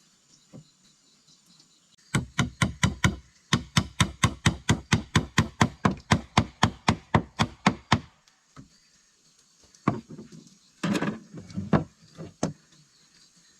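Rapid, even knocking, about five strikes a second, with a short break after the first second of it. Then a few scattered knocks and thuds near the end.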